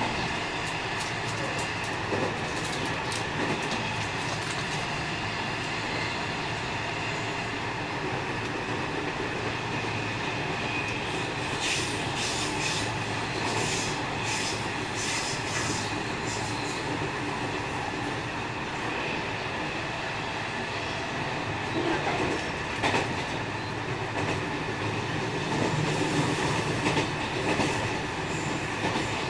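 JR West 207 series 1000-subset electric train running along the track: a steady running noise with level tones and wheels clicking over rail joints, with a quick run of sharp clicks about halfway through and a few louder knocks near the end.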